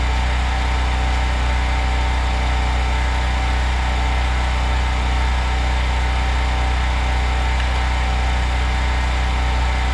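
An engine running steadily at idle, an even low hum with no change in speed.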